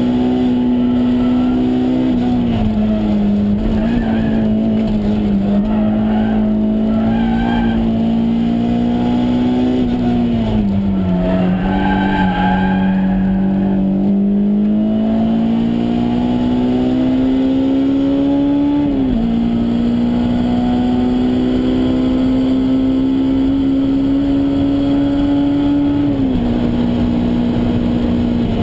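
Honda S2000's four-cylinder engine, heard inside the cabin, running hard at high revs. Its pitch sinks once as the car slows, then climbs steadily, dropping suddenly twice on upshifts, about two-thirds through and again near the end.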